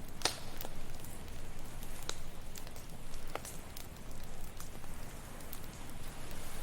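Wood fire crackling, with scattered sharp pops, the loudest about a quarter second in. Under it runs a steady low wash of ocean waves.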